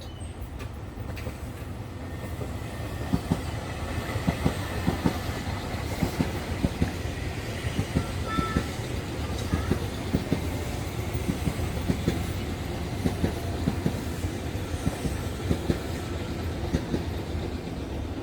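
Nankai electric train running past on the track, with a low rumble and its wheels clacking over the rail joints in a steady, repeating rhythm from about three seconds in.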